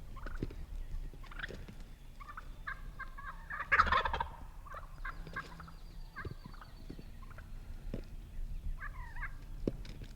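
Wild turkey toms gobbling at close range, with one loud gobble about four seconds in, among shorter turkey calls from the flock.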